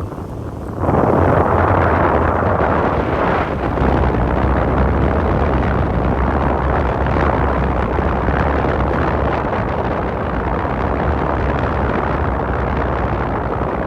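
Wind buffeting the microphone over the steady low drone of a Venice water bus's engine. The wind noise jumps louder about a second in and stays loud.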